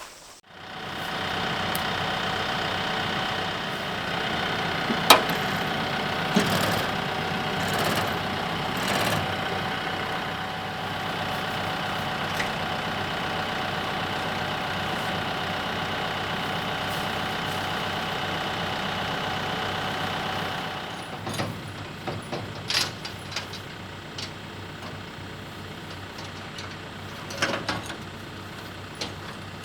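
TYM T654 compact tractor's diesel engine running steadily, with a few sharp knocks over it. About two-thirds of the way through it drops quieter, and scattered clanks and knocks follow.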